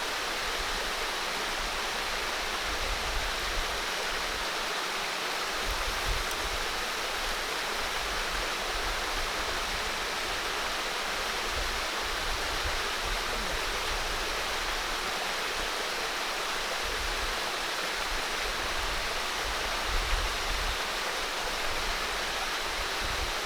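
Steady rush of flowing water in the forest, an even hiss that does not change, with a couple of small knocks about twenty seconds in.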